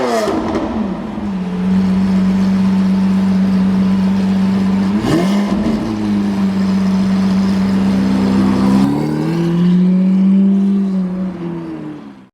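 Lamborghini Aventador V12 with a Capristo aftermarket exhaust running at a steady engine speed after the revs drop at the start, with one quick blip of the revs about five seconds in. Near the end the note shifts, falls and cuts off.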